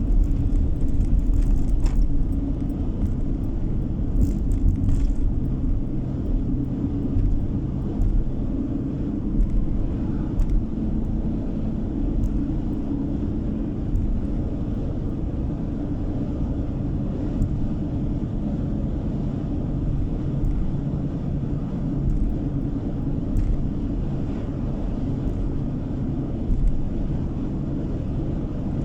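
Steady road noise inside a moving car's cabin: a low rumble of tyres and engine while driving at an even pace.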